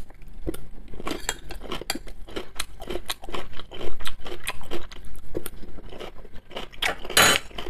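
A person chewing a mouthful of fresh vegetable salad of cucumber and cabbage, close to the microphone: wet, irregular crunching bites one after another.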